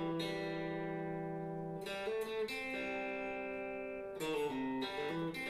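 Guitar playing a slow country lick note by note: single picked notes, several open strings, each left to ring into the next.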